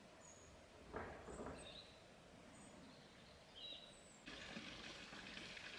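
Near silence: faint outdoor ambience with a few brief, high bird chirps. There is a soft rustle about a second in, and a faint steady hiss from about four seconds in.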